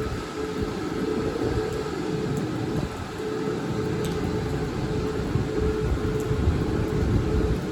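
Taiwan Railway train at a station platform: a steady low rumble with a steady mid-pitched hum over it.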